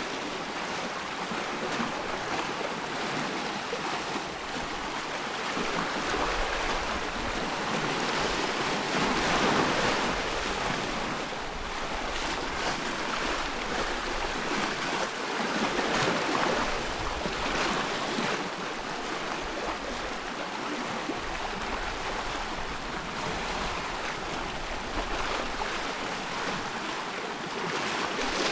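Sea waves washing ashore in a continuous wash, swelling louder now and then as waves break.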